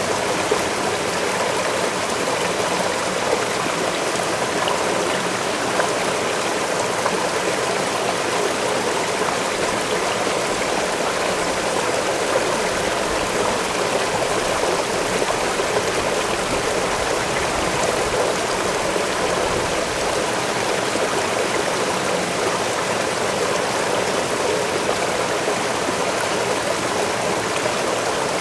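Waterfall pouring steadily: an even, unbroken rush of water.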